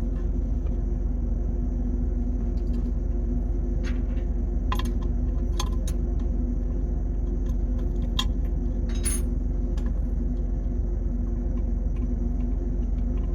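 Steady drone of ship engine-room machinery, an even rumble with a constant hum, with a handful of short sharp clicks between about four and nine seconds in.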